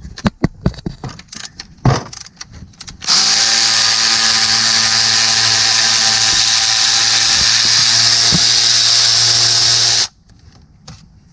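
A few knocks and clicks, then a power ratchet runs steadily for about seven seconds and stops abruptly, spinning out a 13mm timing-cover bolt on a 3.6L V6.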